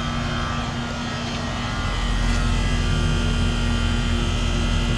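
Noisy York Olympian central air-conditioner condensing unit running: a steady compressor hum under the outdoor fan's rush, with the low rumble growing louder about two seconds in. Its compressor is probably a Bristol.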